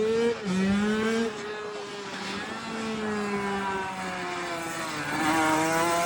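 Minibike's Honda CR85 single-cylinder two-stroke engine under throttle. The revs climb and drop sharply about half a second in, as on an upshift, then climb again. They ease off and fall for a few seconds, then rise again near the end.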